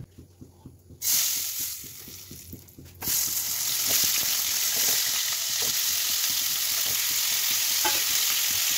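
Potato and green papaya chunks frying in hot mustard oil in a non-stick kadai. The sizzle starts suddenly about a second in, then jumps louder about three seconds in and stays steady.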